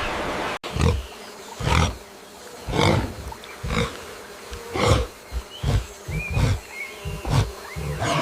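A large animal calling in a series of deep, loud roaring grunts, roughly one a second and coming a little faster toward the end. Before them, a steady rushing noise cuts off abruptly just over half a second in.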